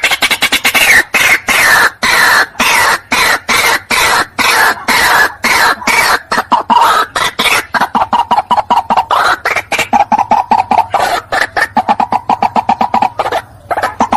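White-breasted waterhen calling: a long run of harsh, clipped notes, several a second, falling in pitch at first, then quickening onto a steadier pitch in the second half. It is a recording played as a lure.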